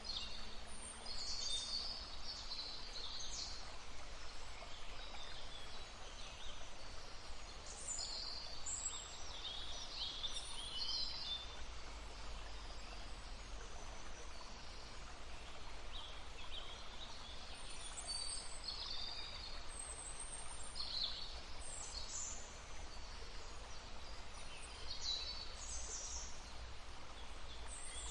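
Songbirds chirping and warbling in short high phrases that come in clusters every few seconds, over the steady murmur of a running stream.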